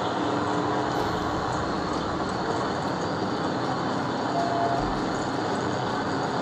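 Steady road and engine noise of a vehicle on the move, an even rushing hiss with no breaks.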